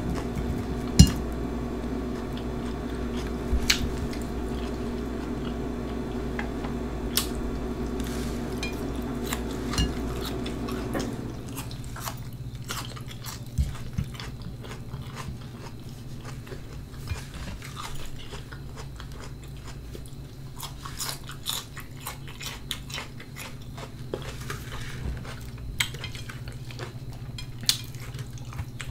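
Close-up chewing and crunching of Flamin Hot Cheetos nachos and raw onions, with scattered sharp clicks of a fork against a plate. A steady background hum runs underneath and drops away about eleven seconds in.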